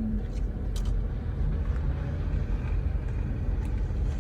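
Steady low rumble of idling vehicle engines, with a few faint clicks.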